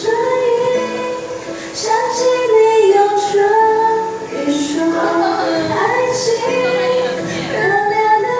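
A female voice singing a Mandarin pop ballad with musical accompaniment, the melody held in long sustained notes.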